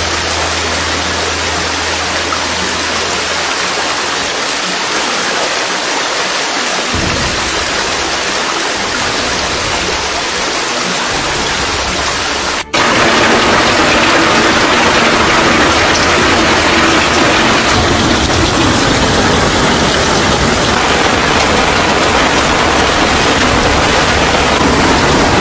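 Loud, steady rushing of water, with an abrupt cut about halfway through to a louder stretch of the same kind of noise.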